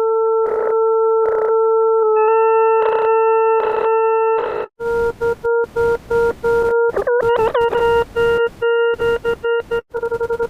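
Desmos graphing calculator's audio trace sounding a steady electronic tone, broken again and again by short bursts of hiss. About seven seconds in the pitch briefly wobbles, and near the end the tone breaks into a fast stutter.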